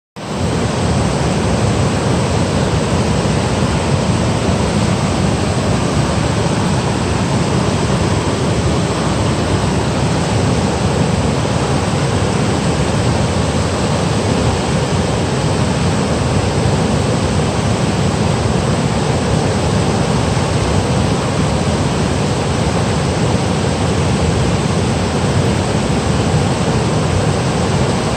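Water of a mountain valley stream rushing over rocks and small falls: a steady, loud rush with a deep low rumble beneath it, rising in at the very start and then holding even throughout.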